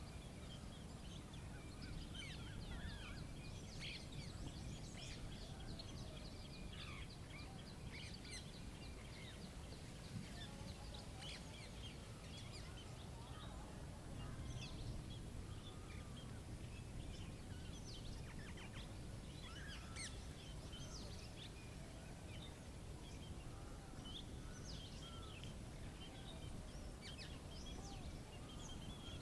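Nature ambience of many birds chirping and calling in short scattered notes, over a steady low rumble.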